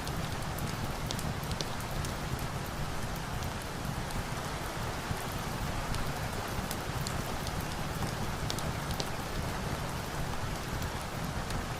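Steady rain, with scattered light, sharp crackles of a log fire mixed in.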